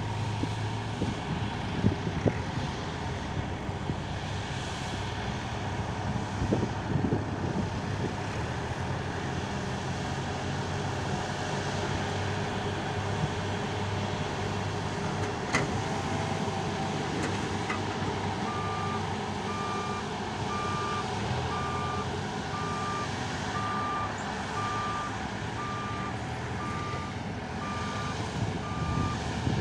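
JCB 3DX backhoe loader's diesel engine running steadily under work. About two-thirds of the way in its reversing alarm starts, beeping about once a second.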